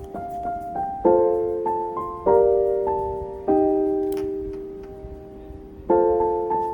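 Soft background piano music: chords struck about every second and a half to two seconds and left to fade, with a few single notes between them and one long-held chord in the middle.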